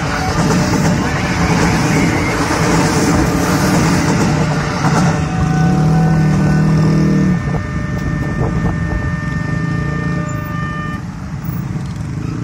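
KRL commuter electric train running past close by, a loud steady rush of wheels on the rails. About seven seconds in the noise eases, and several steady tones sound over the quieter train and traffic noise.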